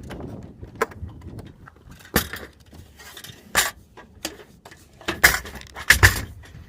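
A series of sharp separate clinks and knocks, as of metal parts being handled, with a closer run of them about five to six seconds in.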